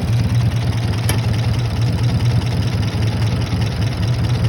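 Massey tractor engine idling steadily, warming up after a cold start.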